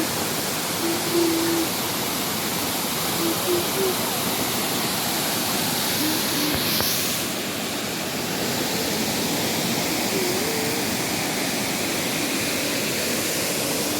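Waterfall and fast-flowing stream water rushing over rocks, a steady, even noise.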